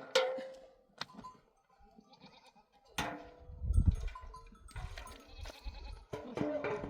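Sheep bleating several times, in separate wavering calls, with a brief low rumble about four seconds in.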